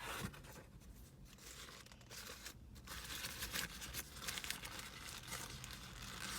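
Fast-food paper bag and sandwich wrapper rustling and crinkling as they are opened, in irregular bursts.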